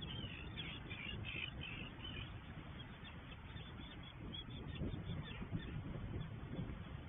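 Birds calling, a flurry of calls in the first two seconds thinning to a few scattered ones, over a steady low rumble.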